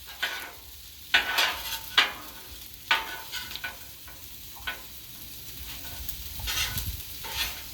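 Fried rice sizzling on a Blackstone flat-top griddle while a spatula scrapes and mixes it across the hot griddle, with a sharp scrape about every second.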